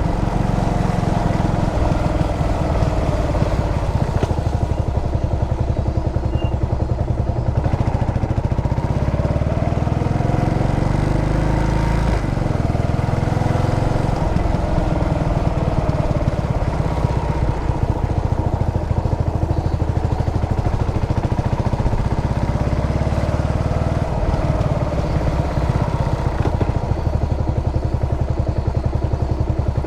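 Yamaha SR400 single-cylinder engine running under way, its revs rising and falling several times.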